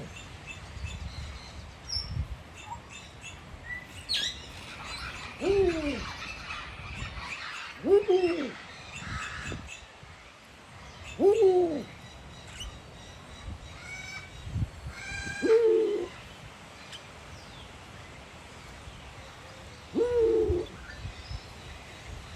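A bird calling: five short calls that each rise and fall in pitch, spaced a few seconds apart, with fainter high chirps in between.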